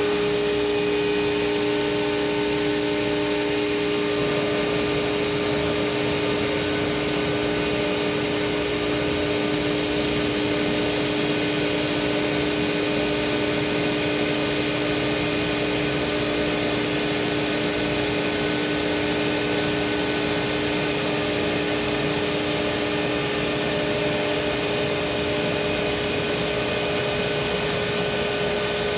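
CNC router spindle milling an HDPE plastic sheet: a steady machine whine over an even cutting hiss. About four seconds in, one of the higher tones drops out and the hiss shifts slightly.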